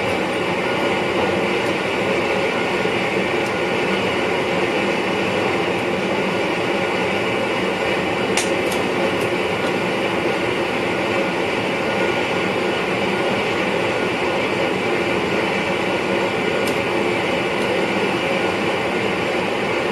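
Steady running noise inside the driver's cab of an NS VIRM double-deck electric train moving along the track: an even rush with a faint hum, broken only by a few faint clicks.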